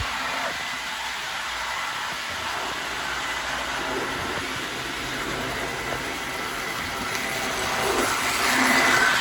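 Model train running on the layout's track: a steady whir and rumble of the locomotive's motor and wheels on the rails, growing louder near the end as it comes closer.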